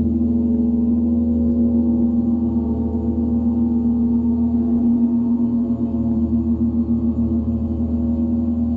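Overtone-rich sound-healing instruments ringing in a sustained drone: one strong steady tone with many overtones above it and a slow, wavering pulse underneath, with no distinct strikes.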